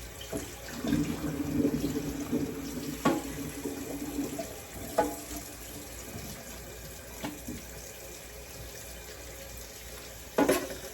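Kitchen tap running into the sink as raw pork ribs are handled under it, with a few sharp knocks, the loudest near the end.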